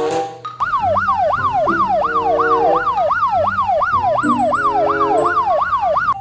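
Police siren sound effect wailing in fast rising-and-falling sweeps, about three a second, starting about half a second in and cutting off near the end, over light background music.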